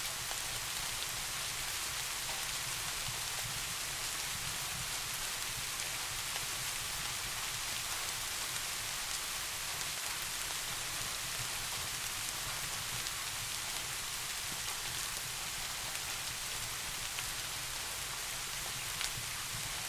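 Steady rain falling, an even hiss with no letup, and a few sharp drop-like ticks near the end.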